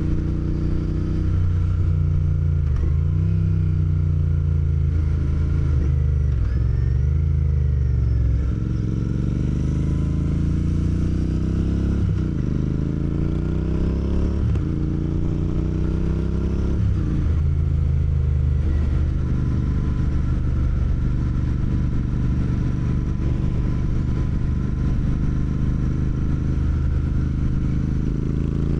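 Motorcycle engine accelerating through the gears: its pitch climbs and drops back at each upshift, about half a dozen times, then holds a steady pitch while cruising for the last several seconds.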